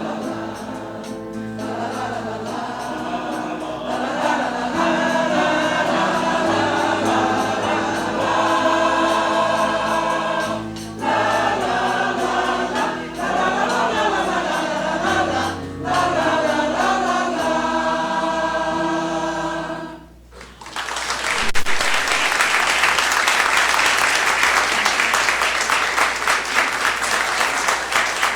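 Choir singing with keyboard accompaniment, ending its song about 20 seconds in. After a short gap, the audience applauds steadily.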